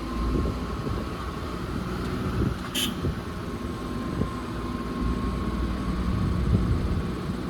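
Motor vehicle engine running while driving, with occasional knocks and a thin steady high tone over the low hum.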